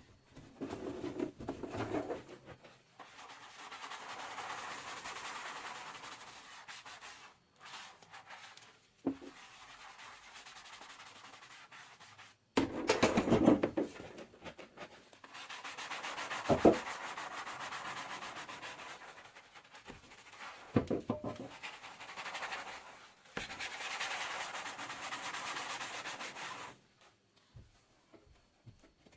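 Sponge scrubbing dishes at a kitchen sink: stretches of steady rubbing a few seconds long, broken by short pauses, with a few short knocks of dishware.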